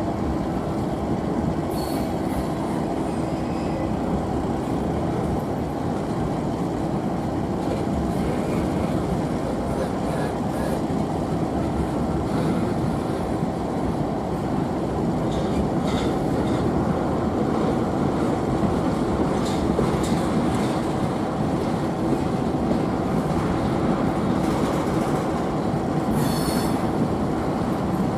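A train rolling past at close range: a continuous rumble of steel wheels on rail under a steady drone. Brief high-pitched wheel squeals come about two seconds in, around the middle, and near the end.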